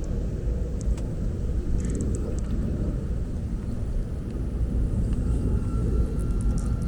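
Aeroplane passing overhead: a steady low rumble, with a few faint high chirps about two seconds in and again near the end.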